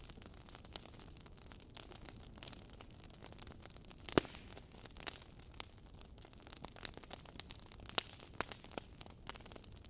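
Wood fire burning in a fireplace: a faint steady hiss with irregular crackles and pops, the loudest a sharp snap about four seconds in.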